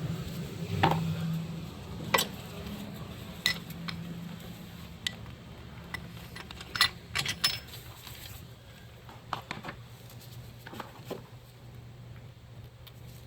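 Scattered light metallic clinks and taps of steel bolts and hand tools being handled while starter mounting bolts are readied with Loctite, a dozen or so irregular clicks over a faint steady hum.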